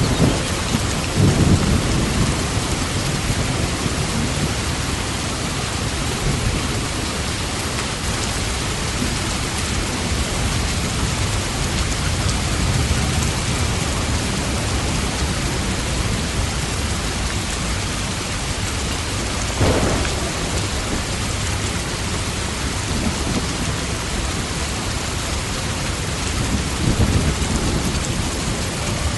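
Steady heavy rain with low rolling thunder that swells near the start and again near the end. A brief sharp crack comes about two-thirds of the way through.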